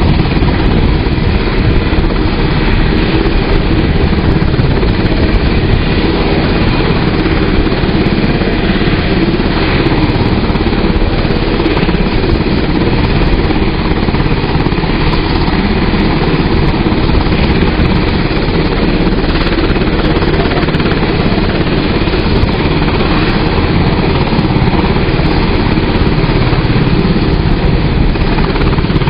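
UH-60J helicopter's twin turboshaft engines and main rotor running steadily on the ground.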